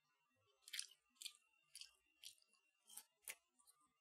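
Close-mouthed chewing of a crunchy breaded mini chicken kiev, a crisp crunch about every half second.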